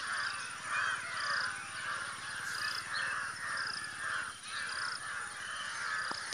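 A gathered flock of birds calling over one another without pause: rasping calls repeat about twice a second, with short higher chirps in between.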